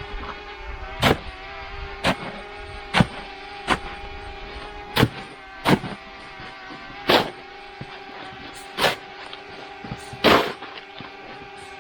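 A series of sharp knocks or blows, about ten of them at uneven intervals of roughly a second, over a faint steady hum.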